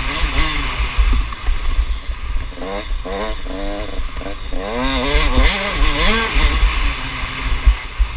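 Motocross bikes revving hard and falling back in quick swells as they ride the track, the engine note rising and dropping twice in the middle, over a steady background of other bikes. Wind rumbles on the microphone.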